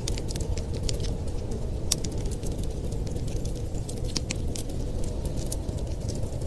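Wood fire crackling, with many irregular sharp pops and snaps, one louder pop about two seconds in, over a steady low rumble.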